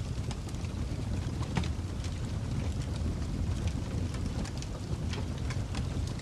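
Fire crackling: a steady low rumble of burning with scattered, irregular sharp pops.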